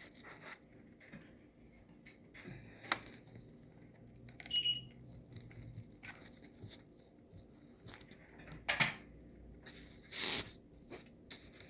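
Quiet crafting handling sounds: a few separate soft rustles and taps as material is tucked, folded and hot-glued by hand. A brief high beep comes about four and a half seconds in.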